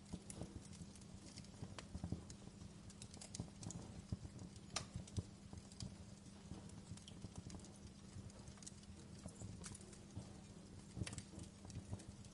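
Wood fire in a fireplace crackling, with irregular small pops and a few louder snaps, over a low steady rumble.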